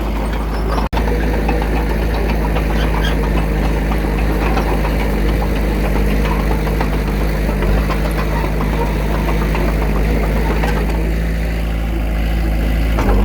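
Heavy diesel earthmoving machine working: a steady engine note with a dense diesel clatter, with an instant's dropout about a second in.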